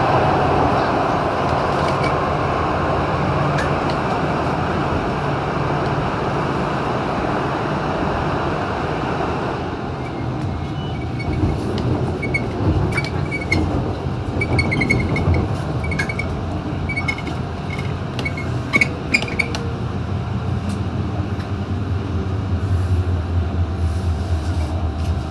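MTR Disneyland Resort Line M-train running between stations, a steady rumble of wheels on rail and running gear. About ten seconds in the noise becomes somewhat duller, and faint clicks and short high squeaks follow.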